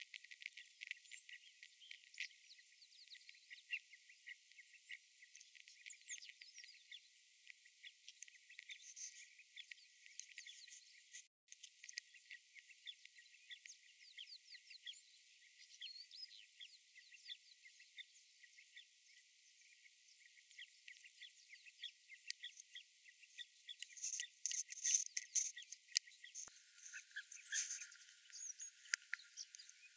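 Birds giving many short, high chirps and ticks, faint and thin with no low sounds at all, growing louder in clusters near the end.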